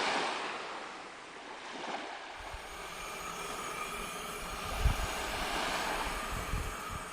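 Ocean waves washing on a beach, a steady surf hiss. A low rumble comes in about two seconds in, with a brief thump a little before five seconds.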